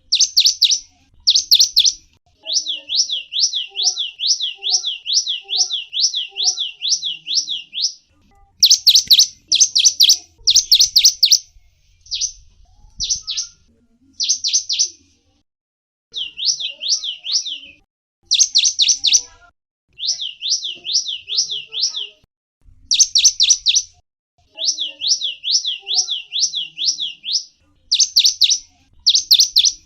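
A small songbird, a gelatik wingko, singing strings of rapid, high, sweeping chirps, several a second. The runs last one to three seconds with short pauses between, and a few louder, harsher bursts come in among them.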